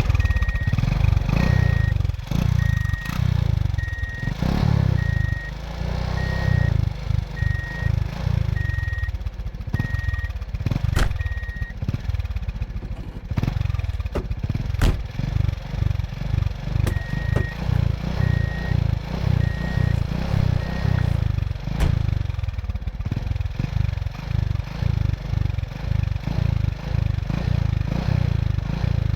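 Excavator's diesel engine running under load, its low rumble pulsing unevenly, with a few sharp clanks.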